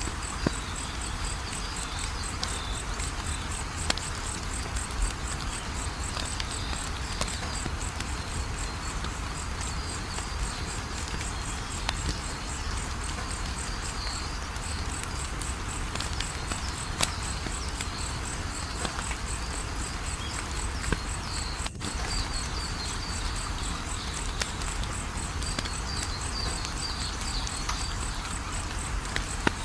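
Wood fire crackling steadily, with scattered sharp pops, over crickets chirping in a fast, regular high pulse.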